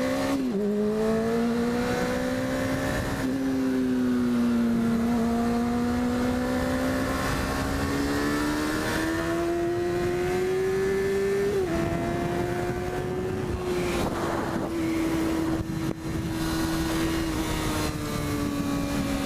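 Motorcycle engine running while riding, heard from the rider's microphone over wind noise. Its note climbs slowly and drops suddenly a few times, about half a second in and again near the middle, as it shifts up through the gears.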